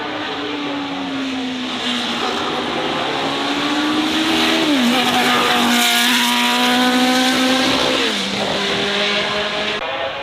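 Race car accelerating past under full power, its engine note climbing and dropping sharply at two upshifts, about five and eight seconds in, and loudest as it goes by in between.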